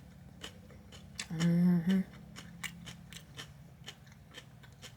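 Close-miked chewing of a crunchy broiled eggplant parmesan sandwich, a scatter of crisp crackles all through. About a second in, a short loud hummed vocal sound from the eater breaks in for under a second.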